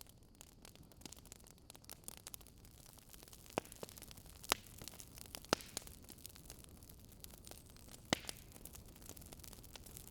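Faint campfire crackle: a steady soft hiss with a few sharp, irregular pops from the burning wood.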